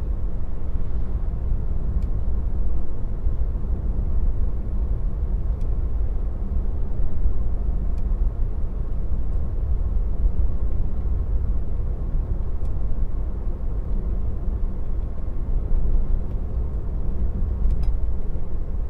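Steady low tyre and road rumble of a Tesla electric car driving along, heard from inside the cabin.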